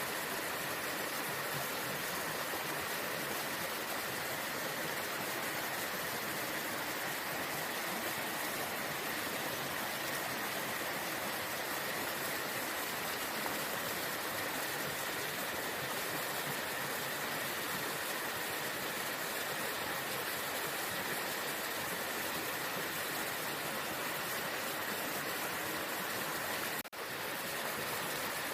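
Waterfall water rushing steadily, cutting out for a split second near the end.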